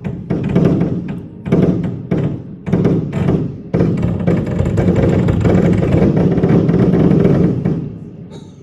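Consumer fireworks compound cake (Alpha Vortex compound) firing: a string of separate booming shots about a second apart, then a rapid, continuous barrage that dies away about eight seconds in.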